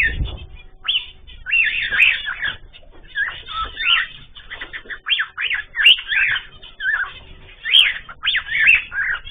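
Ornamental cage birds (cockatiels, canaries and zebra finches) chirping and calling, with many short, quick calls overlapping in clusters.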